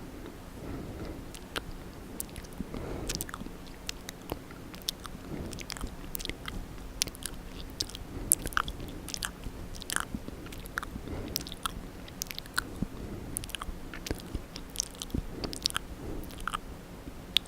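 Close-up ASMR mouth sounds: wet, irregular clicks and smacks of lips and tongue, several a second.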